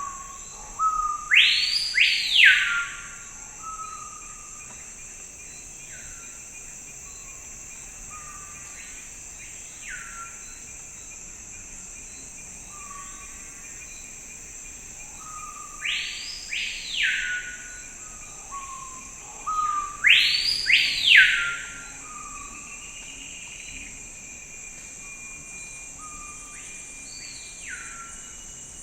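A songbird singing loud whistled notes that sweep up and down, in three bursts of song (at the start, about halfway, and about two-thirds in), with fainter calls in between. Under it runs a steady high insect drone.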